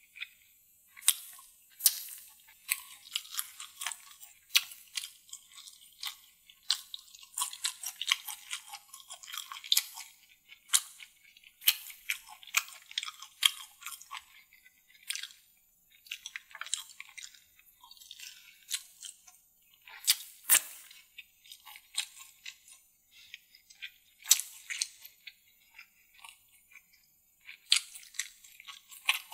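Close-miked chewing and biting of a saucy deviled chicken drumstick: wet mouth clicks, smacks and small crunches at an irregular pace, with a few louder bites.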